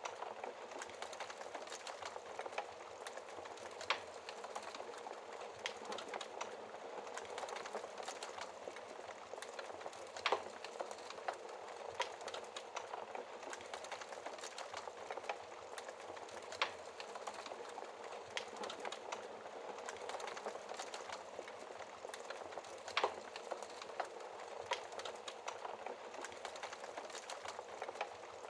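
Wood fire burning steadily with a constant soft hiss and frequent crackles and pops, a few of them louder snaps.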